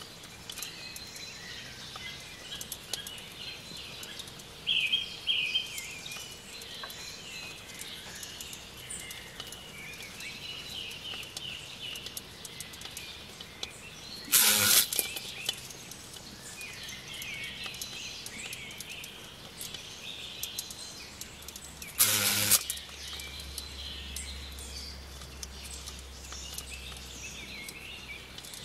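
Birds chirping and singing outdoors, with two short, loud rushes of noise, one about halfway through and one about two-thirds of the way through.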